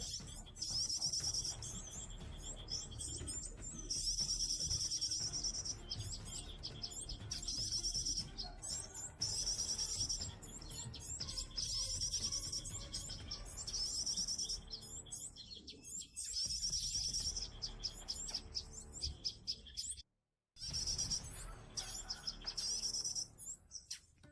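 Small songbirds chirping in repeated, fast, high-pitched phrases, each lasting a second or two, with a brief cut to silence about twenty seconds in.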